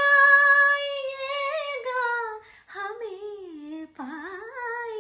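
A high voice singing a Hindi song unaccompanied: one long held note for about two and a half seconds, then two shorter phrases with pitch glides and vibrato after brief breaths.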